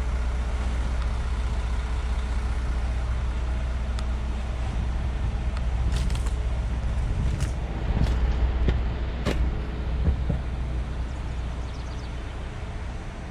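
Truck engine of a boom crane running steadily with a low drone. Several sharp knocks come in the middle.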